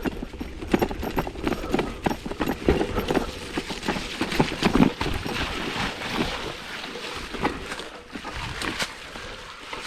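Mountain bike rattling and knocking over a rough dirt trail: quick irregular clatters over a low rumble, easing off somewhat about two-thirds of the way through.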